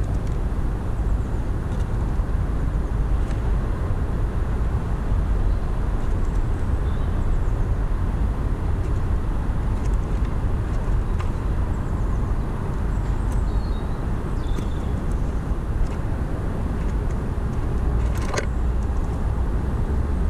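Steady low outdoor rumble, the kind of background drone that distant road traffic or wind on the microphone makes. A few faint, short bird chirps come through here and there, and a single sharp click sounds near the end.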